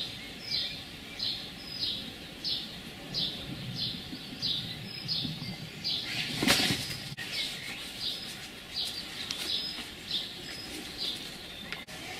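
A bird calling a short, high, falling note over and over, about one and a half times a second. A brief louder noise comes about six and a half seconds in.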